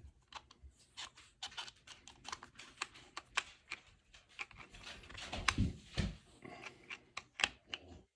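Irregular small clicks, ticks and scrapes of a flathead screwdriver and hands working the mounting screw of a Streamlight TLR-7 Sub weapon light on a pistol's rail, tightening it down. Two duller knocks come about five and a half and six seconds in.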